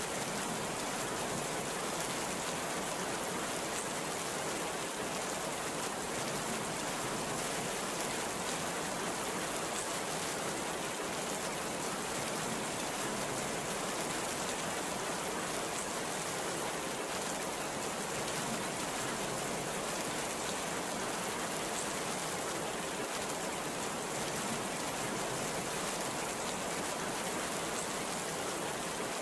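Heavy rain falling steadily, an even continuous hiss of downpour with no thunder.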